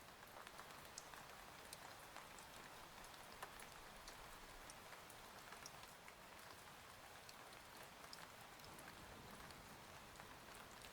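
Rain falling steadily and faintly, with many scattered sharp ticks of individual drops striking a surface.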